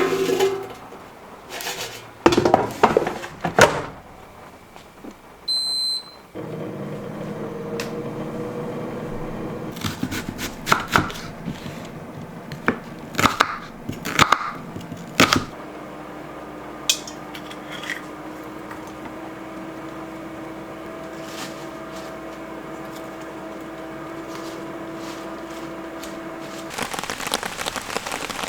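Handling clicks and knocks, then a short electronic beep followed by a steady electric appliance hum with knocks over it. The hum stops shortly before the end.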